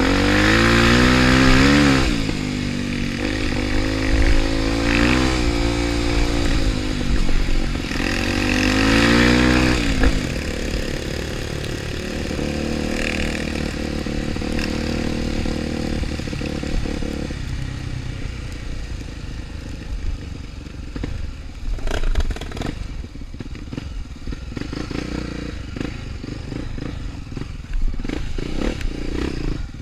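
Trail motorcycle engine revving up and down repeatedly for about the first ten seconds, then running at lower revs with scattered knocks and clatter.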